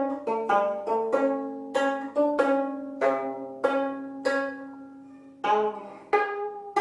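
Gayageum, the twelve-string Korean zither, playing a slow melody: single plucked notes that ring and decay, with one longer note about halfway through that is left to fade before the plucking resumes.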